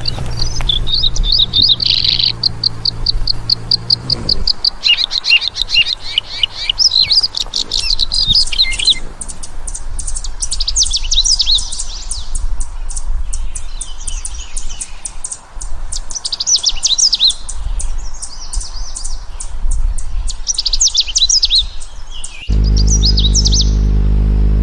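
Lovebird chattering: rapid, high chirps and trills in repeated bursts. A low steady hum sounds under the birdsong at the start and comes back, suddenly, near the end.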